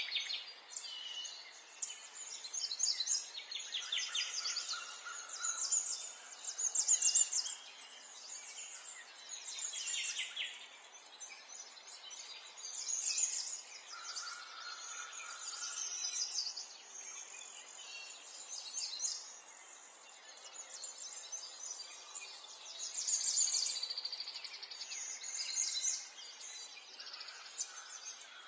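Several birds singing together, overlapping high chirps and rapid trills that come in phrases every few seconds, over a faint steady background hiss.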